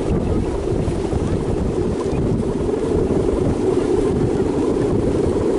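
Strong wind buffeting the microphone: a loud, steady low rumble of rushing air with no let-up.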